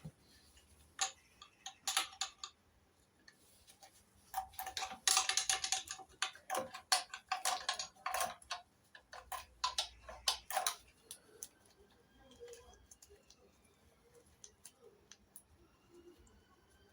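A run of sharp metallic clicks and ticks from hand tools working the carburettor nuts on an MGB engine. They come thickest and fastest about four to six seconds in, then tail off to sparse ticks with faint high chirps.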